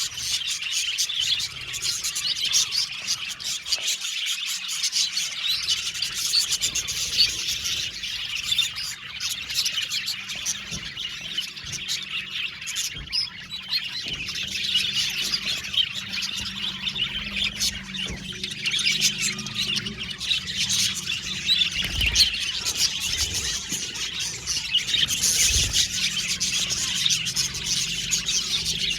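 A colony of budgerigars chirping and chattering together: a dense, continuous mass of short warbling calls. Two dull low thumps come about two-thirds of the way through.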